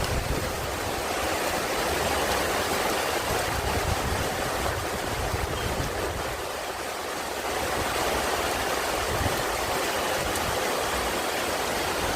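Steady rush of flowing water, with an uneven low rumble of wind on the microphone underneath.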